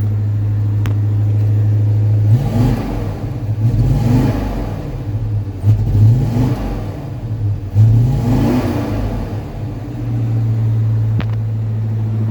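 1978 Chevy K30 truck's engine heard at the exhaust, idling steadily, then revved three times in quick succession, each rev rising and falling, before settling back to idle near the end. The engine is freshly cold-started after sitting for a couple of months.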